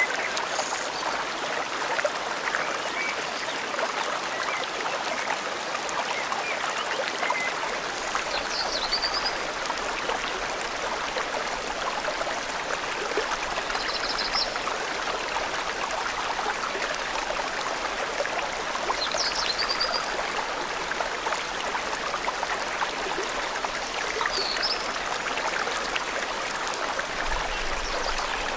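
Forest stream flowing steadily, with a short high bird call about every five seconds.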